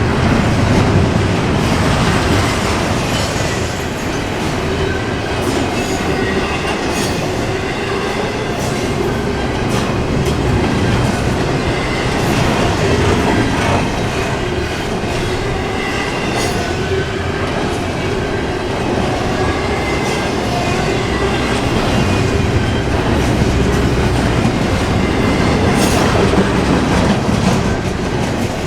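Intermodal container cars of a freight train rolling past in a steady loud rumble, with wheels clicking over the rail joints and a faint high wheel squeal.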